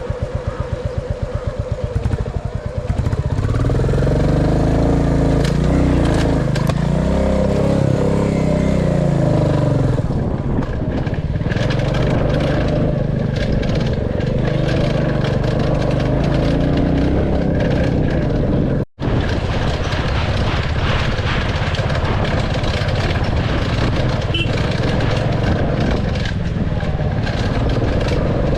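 Royal Enfield Classic 350 single-cylinder engine running under way, first in slow even pulses, then louder from about three seconds in with its pitch rising and falling as the throttle and gears change. Later it is joined by many short rattles and clicks, and the sound cuts out for a moment about two-thirds through.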